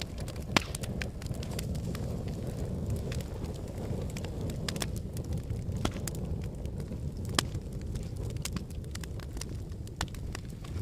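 Wood logs burning in a fireplace: a steady low rumble of flame with frequent crackles and sharp pops, the loudest pop about half a second in.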